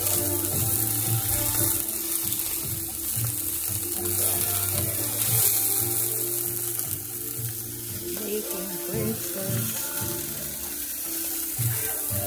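Food sizzling in a frying pan, with background music playing under it.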